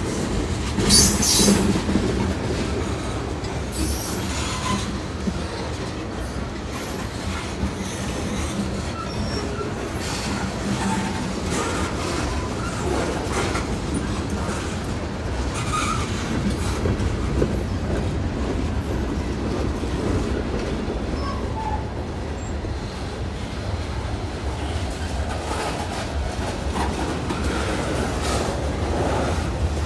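Freight train of tank cars, boxcars and covered hoppers rolling past at close range: a steady rumble of steel wheels on rail, with brief high-pitched wheel squeals about a second in, around four seconds and again about halfway.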